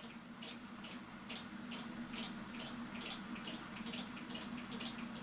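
Mechanical clock ticking evenly, about three to four ticks a second, over a steady low hum.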